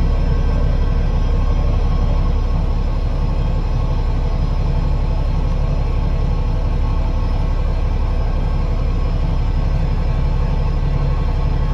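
Drivetrain of an Enviro500 MMC double-decker bus under way, heard from inside the cabin: the Cummins ISL8.9 diesel engine and Voith DIWA gearbox running with a deep, steady drone, overlaid with several steady whining tones.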